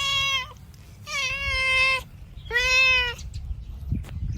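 A cat meowing three times in short pitched calls, the middle one the longest, over a low rumble.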